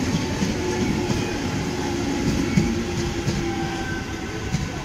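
Passenger train running on the rails, heard from aboard a sleeper coach: a steady rumble of wheels on track with scattered knocks and a thin squealing tone through the middle.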